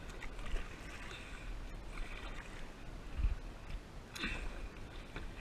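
Kayak paddle strokes splashing in the water, a surge of splash about every two seconds, with a dull thump a little past the middle.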